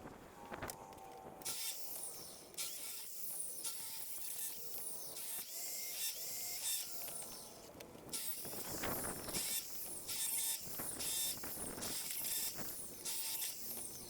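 Hand saw cutting wood: repeated rasping strokes, about one a second.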